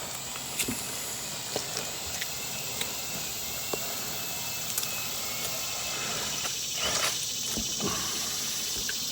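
Steady background hiss with a faint high tone, under a few soft clicks and taps of a knife working through a chicken wing joint.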